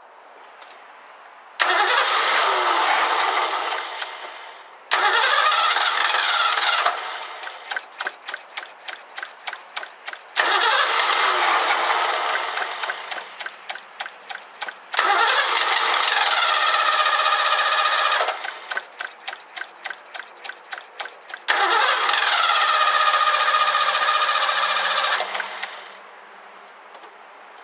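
1984 Ford Mustang GT350 engine catching five times in a row. Each time it runs briefly, its revs sagging, then stumbles into a string of uneven pulses and dies. This points to a fuel problem that the owner suspects is a failed fuel pump.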